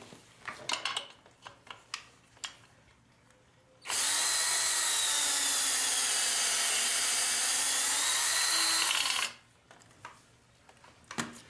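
A few light clicks, then a power drill spinning a 10 mm socket on an extension for about five seconds, steady with slight changes in speed, backing out a drain bolt.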